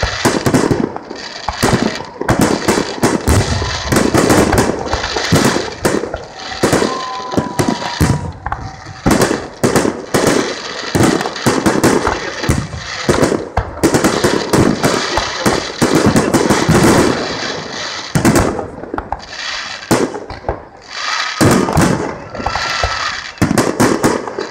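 Fireworks display: a dense, continuous volley of shells bursting, sharp bangs and crackle following one another with almost no pause. Two short whistles cut through, about a third of the way in and near the end.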